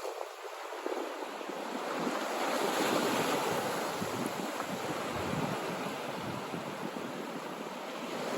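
Sea waves washing in, with wind on the microphone; the rush swells about three seconds in and then eases.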